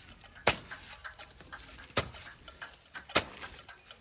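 Three sharp blows of a hand tool striking soil, about a second and a half apart, with faint scraping between them.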